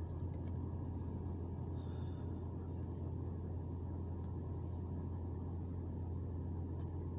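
Steady low engine rumble of a car, heard from inside its cabin, with a few faint clicks.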